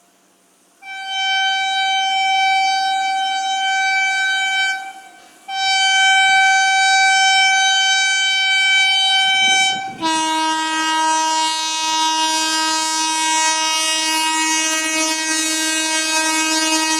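Indian train horns: a high-pitched horn sounds two long blasts of about four seconds each with a short break between them, then about ten seconds in a lower-pitched horn takes over and holds steadily.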